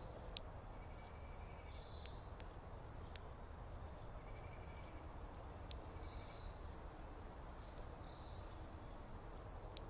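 A bird repeating a short, high, slightly falling call every two to four seconds, with a fainter trill lower down and a few sharp ticks, over a steady low rumble.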